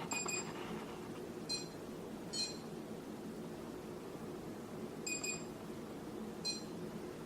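Chuwi ILIFE V5s robot vacuum sitting on its charging dock and giving short high electronic beeps: a longer beep at the start, two short ones soon after, another longer one about five seconds in, and a short one near the end. It beeps on the dock because its main power button has not been switched on.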